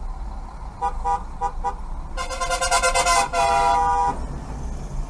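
Car horn: several short beeps, then one long blast of about two seconds, over low road and engine rumble.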